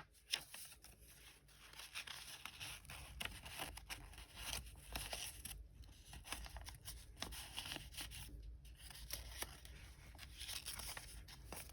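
Paper and cardstock rustling and crinkling as a junk journal's pages, tags and pocket inserts are handled, with faint irregular scrapes and small taps.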